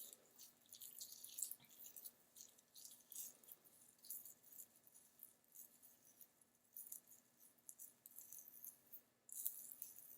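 Faint, crackly rustling of coily hair coated in gel and leave-in being twisted by hand, in short scattered bursts.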